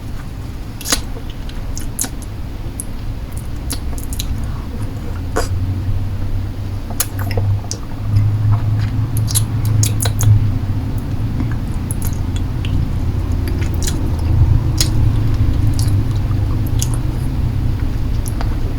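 Close-miked mouth sounds of a lollipop being sucked and licked: irregular wet smacks and clicks scattered throughout. A low steady rumble runs underneath and swells in the middle.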